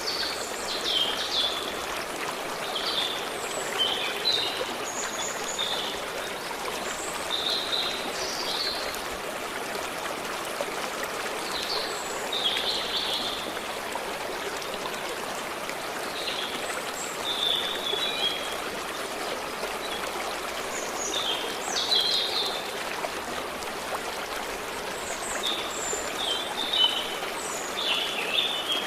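Stream water running steadily, with small birds chirping and twittering in short phrases every few seconds.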